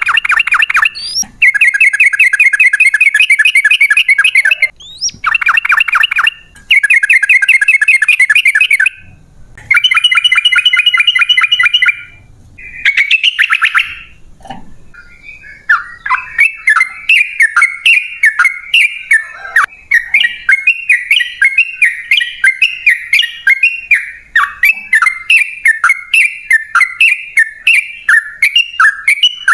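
Yellow-vented bulbul (trucukan) singing: several long bursts of fast, rolling chatter in the first half, then a long run of short bubbly notes repeated about two to three times a second.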